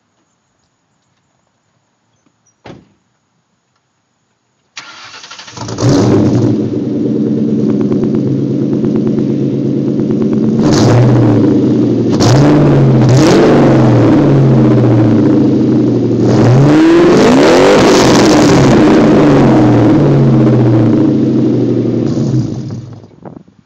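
A 2004 Mustang GT's 4.6-litre V8 through a catless Magnaflow X-pipe and Borla catback exhaust: after a single click, the starter cranks briefly and the engine catches and idles loud. It is blipped three quick times, held up in a longer rev, settles back to idle and is shut off near the end.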